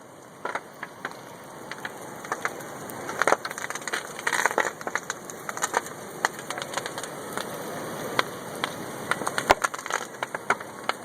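A burning truck: the fire makes a steady rushing noise that slowly grows louder, with frequent sharp cracks and pops, in clusters about three to four seconds in and again near the end.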